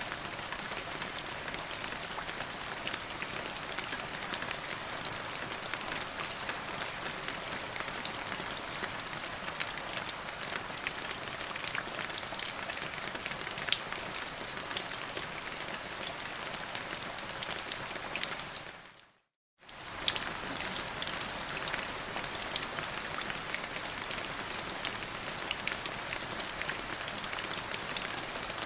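Steady rainfall with scattered individual drops ticking. It fades out to silence for under a second about two-thirds of the way through, then comes straight back.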